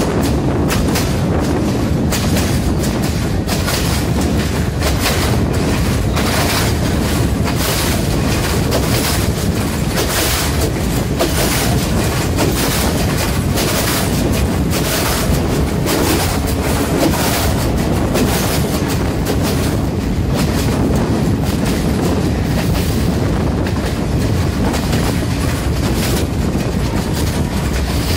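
Passenger train running along the track, heard from an open doorway: a steady rumble of wheels on rail with a constant clatter of clicks and knocks as the wheels pass over rail joints.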